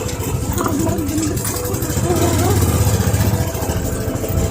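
Motorcycle engine running at low revs with a rapid, even beat, getting louder for a second or so about halfway through.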